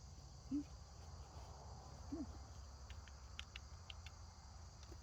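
Insects chirring steadily at a high pitch, with a few faint clicks in the second half.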